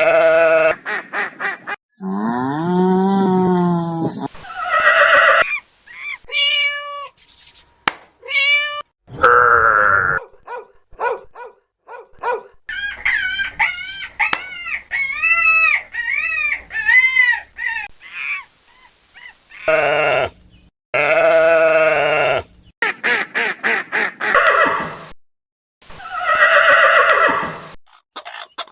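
A run of farm animal calls from many short clips cut together, one call after another. Each call has a clear pitch, and each clip starts and stops abruptly.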